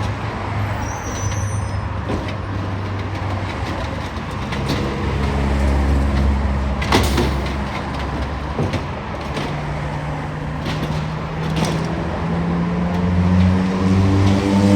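Garbage truck's engine running, its pitch stepping up in the second half and rising further near the end as it revs, with a few sharp knocks along the way.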